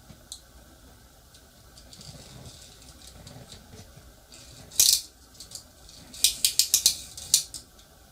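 Small hard parts rattling and clicking: a short loud rattle, then a quick run of about eight sharp clicks.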